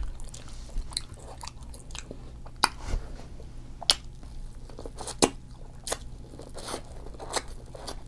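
Close-miked eating of seafood boil food: chewing with scattered sharp, wet smacks and bites, several each second or two.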